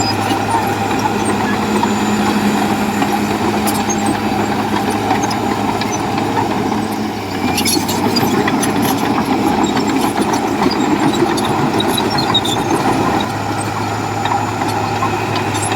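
Heavy diesel engine of a bulldozer running steadily, with a slight change in its note about halfway through and a few faint knocks.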